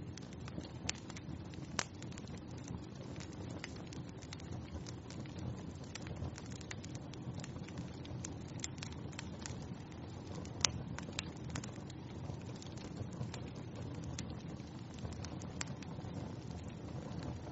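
Wood fire burning in a fireplace: a steady low rushing with frequent scattered crackles and pops, one louder pop about two-thirds of the way through.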